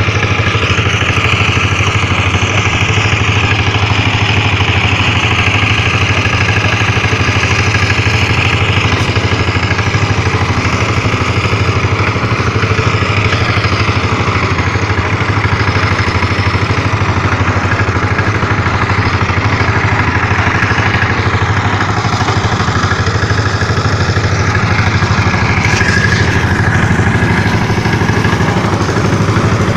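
An engine running steadily with a constant low hum, its level unchanging throughout.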